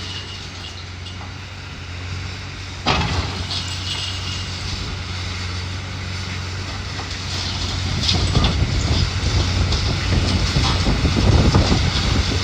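Heavy diesel demolition machine running steadily, with a sharp knock about three seconds in. From about halfway, a growing clatter of crunching, falling debris as the building is torn down.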